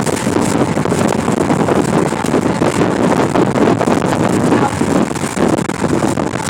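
Wind blowing across the microphone, a loud, steady noise that drowns everything else out.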